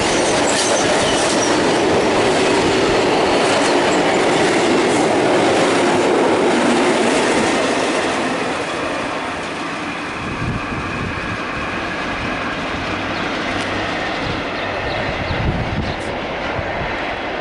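Train passing on the rails, its wheels running over the track. It is loud and steady for the first eight seconds or so, then eases off as it goes by.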